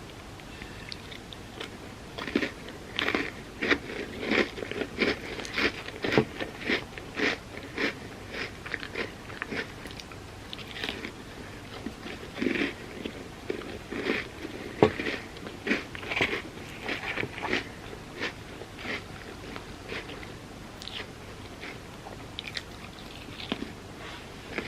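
A person biting and chewing crunchy food close to the microphone, a rapid irregular run of crisp crunches that comes in clusters and thins out near the end.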